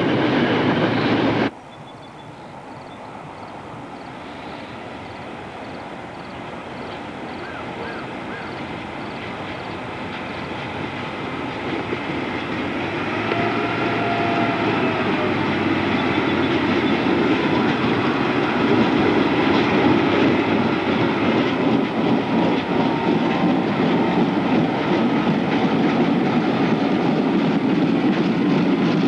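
A train coming closer, its rumble and rail noise growing steadily louder over about fifteen seconds, then running by loud and steady. Just before, louder train noise cuts off abruptly about a second and a half in.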